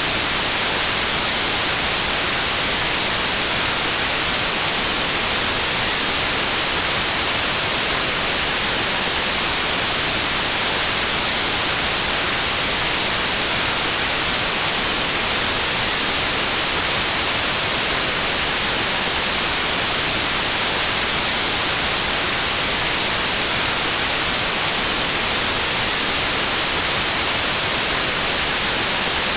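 Steady white noise: an even, unbroken hiss, strongest in the treble.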